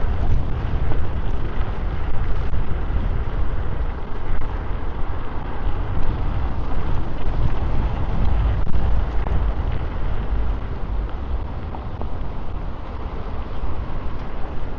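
Wind buffeting a DJI Mic 2 transmitter on a moving electric scooter: a loud, continuous rumble that rises and falls in gusts, with no pause.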